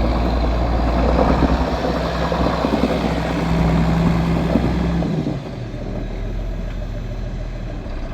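John Deere 4630's six-cylinder turbocharged diesel engine running steadily. About five seconds in, it drops to a quieter, less deep note.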